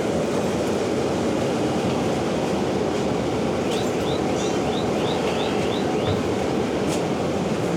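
TTC shuttle bus running, a steady engine and road rumble. About halfway through, a quick run of about seven short, high, rising chirps.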